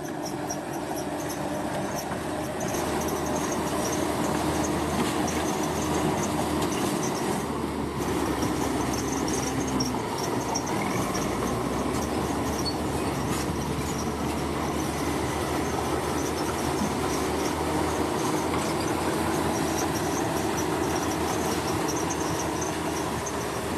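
Heavy diesel construction machinery running steadily, with a high metallic chatter over the engine.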